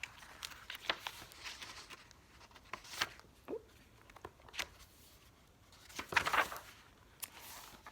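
Handling and turning the pages of a picture book: soft paper rustles and light taps, scattered and irregular.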